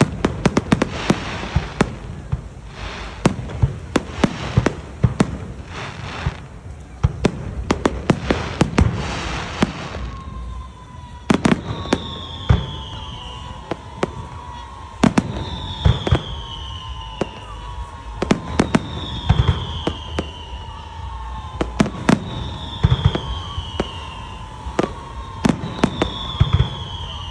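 Fireworks display: rapid bangs and crackling for the first ten seconds. After that come spaced bangs and a falling whistle-like tone that repeats about every three and a half seconds.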